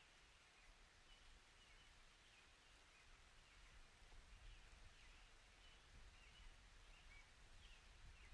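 Near silence, with faint, scattered high chirps of a bird.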